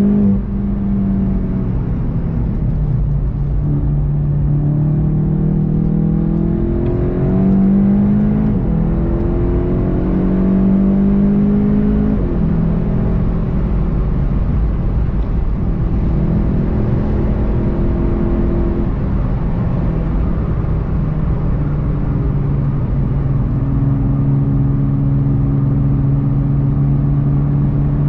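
VW Golf 7 GTI TCR's turbocharged four-cylinder engine heard from inside the car, pulling hard at high speed: its pitch climbs and drops back at several upshifts in the first half, then holds steadier, over steady tyre and road rumble.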